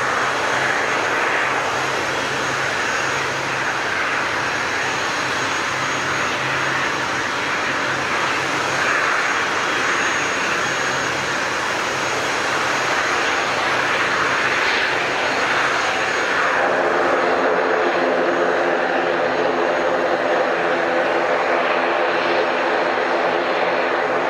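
Aircraft engines running loud and steady at close range, a dense rushing roar. About two thirds of the way through, a set of steady humming tones joins in.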